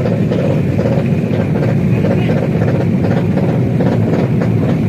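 Tuned drag-race motorcycle engines running loudly and steadily, a dense rumble with no pauses.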